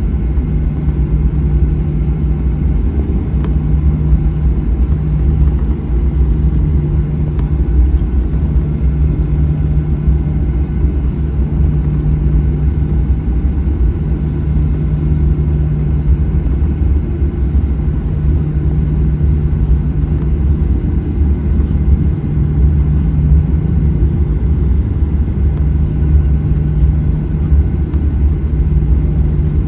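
Steady cabin noise of a Boeing 737-900ER with its CFM56-7B engines running: a constant low rumble with a steady hum underneath.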